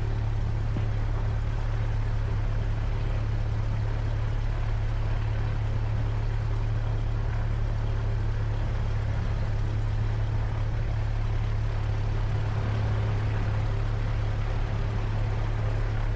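Cessna 172's piston engine and propeller running steadily at low power, heard from inside the cockpit as an even, unchanging low drone.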